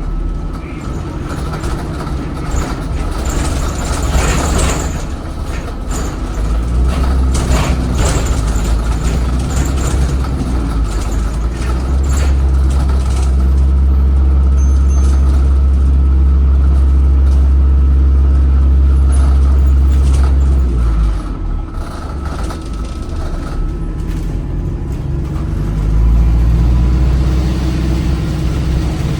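Interior sound of an ADL Enviro 400 hybrid double-decker bus on the move, its BAE Systems Hybridrive electric drive giving a steady high whine as it slows under regenerative braking. Under it the Cummins ISBe 4.5-litre diesel runs as a deep drone that swells in the middle, drops away about two-thirds through and builds again near the end. A few short hissing surges come around four to eight seconds in.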